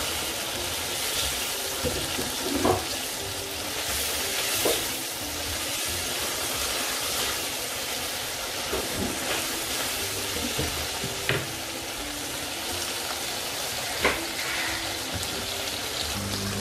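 Frozen mixed vegetables and prawns sizzling steadily in a frying pan while a spatula stirs them, with a few sharp scrapes and taps of the spatula on the pan. The hiss is the water from the frozen vegetables boiling off.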